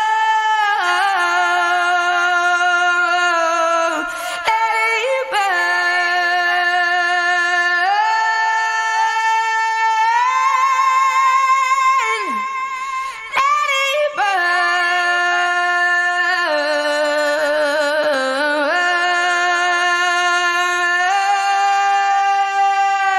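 Isolated female vocals singing without words, layered voices holding long sustained notes together and moving to new pitches every few seconds, with short breaks for breath.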